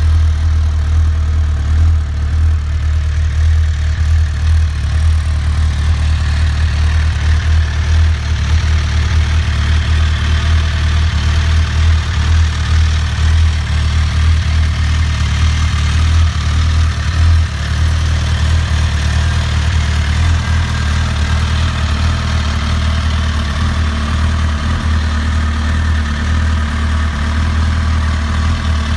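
2007 Suzuki GSX-R1000's inline-four engine idling steadily through its exhaust, with no revving.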